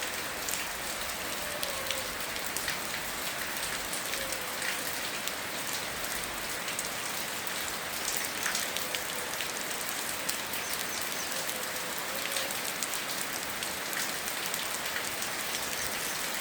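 Steady rain, an even hiss dotted with many separate drop hits. A faint short gliding tone comes back every few seconds underneath.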